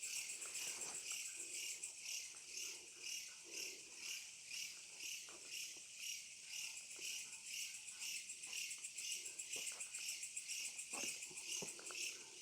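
Night insect chorus: a steady, rapidly pulsing high chirring from many insects.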